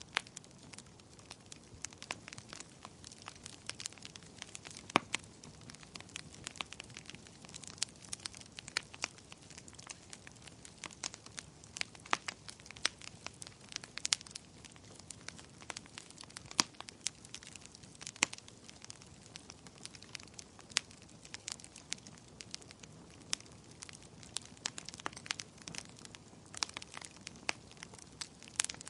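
Wood fire crackling: irregular sharp pops and snaps, a few louder ones, over a faint low hiss of burning.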